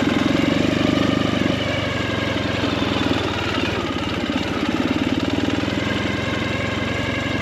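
Motorcycle engine running at low riding speed, its note swelling and easing slightly as the throttle changes.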